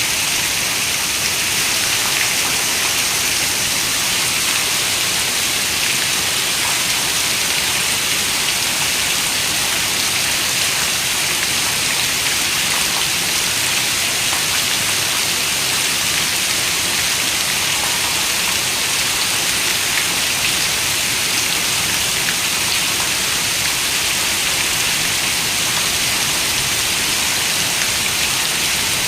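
Steady rain, an even hiss of many raindrops falling, with no thunder or other events.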